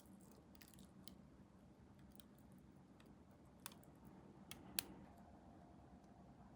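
Faint, scattered small clicks and snips of hobby tools working on small plastic model parts, the sharpest one just under five seconds in, over a quiet room hum.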